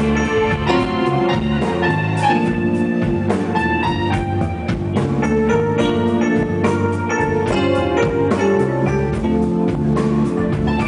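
Live blues band playing an instrumental break: a keyboard solo of held and runs of notes over steady drums, with no singing.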